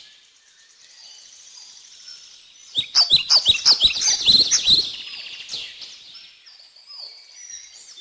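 Small birds chirping. Faint high chirps give way, about three seconds in, to a loud two-second run of quick repeated chirps, then the chirping softens again.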